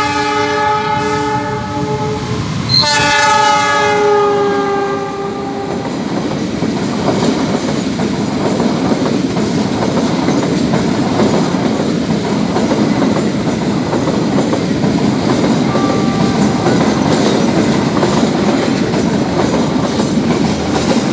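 Passenger train's locomotive horn sounding two long chord blasts, the second starting about three seconds in and ending about six seconds in. Then comes the steady rolling rumble and clickety-clack of the passenger cars passing close by at speed.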